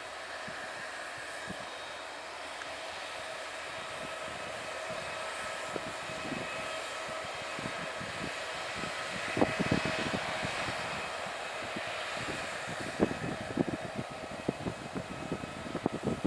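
Aircraft engines running at a distance: a steady whine that builds slightly. From about nine seconds in it is broken by irregular low thumps.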